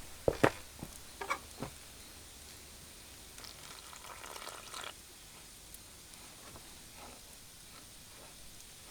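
A few sharp knocks and clicks in the first two seconds, the loudest about half a second in, then a brief soft rustle about four seconds in.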